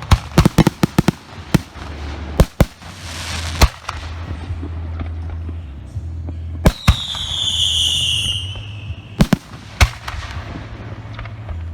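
Professional aerial firework shells bursting: a rapid cluster of sharp bangs in the first second, then single bangs spaced a second or more apart. About seven seconds in, a high whistle, falling slightly in pitch, lasts around two seconds.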